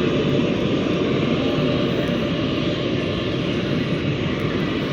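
Jet airliner's engines running steadily as the aircraft taxis, a loud continuous rumble and rush.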